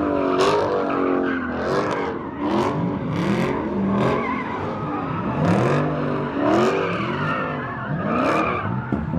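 Car engines revving up and down over and over, with tyres screeching and skidding.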